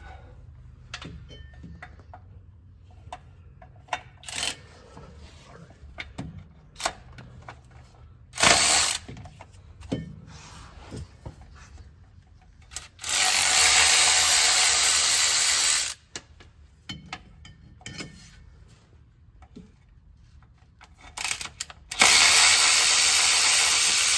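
Tools clinking and knocking on transmission parts, with a short burst and then two steady bursts of about three seconds each from a power tool running while a side plate is unbolted from the truck's manual transmission.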